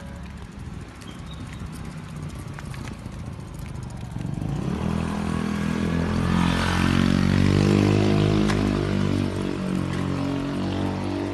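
Motorcycle engine running, rising in pitch and growing louder from about halfway through, then easing off near the end.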